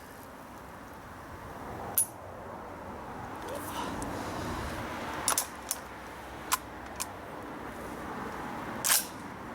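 Sharp metallic clicks and clacks of a Schmidt-Rubin 1889/96 rifle's straight-pull bolt and cartridges being handled, a few single knocks spread out with a small cluster about five seconds in. A low rumble swells and fades under them through the middle.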